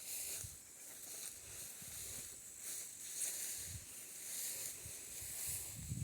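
Outdoor ambience: a high hiss that swells and fades about once a second, with faint low thumps underneath.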